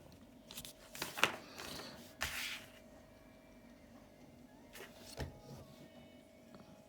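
Plastic parts of a transforming robot toy being handled: a few short clicks and knocks with light scraping, over a faint steady hum.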